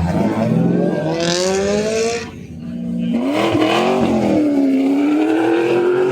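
A car's engine revving hard as it accelerates on a track, its pitch climbing for about two seconds, cutting off briefly, then climbing again and held high.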